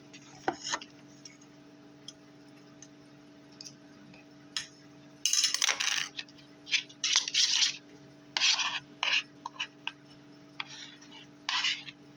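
Kitchen prep handling noises: a string of short scrapes, rubs and clicks, most of them between about five and nine seconds in, over a steady low hum.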